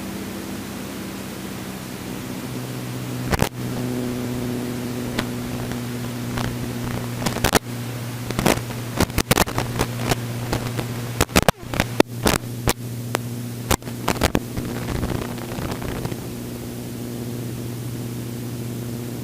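Steady hum and hiss of a helicopter running on the ground, heard through the headset intercom. The hum shifts lower about two and a half seconds in. Through the middle comes a run of sharp clicks, thickest around eleven to thirteen seconds.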